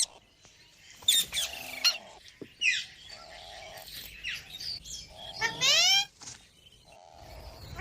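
Pet green parrot giving a series of shrill squawking calls, each sweeping sharply upward in pitch; the longest and loudest comes about five and a half seconds in.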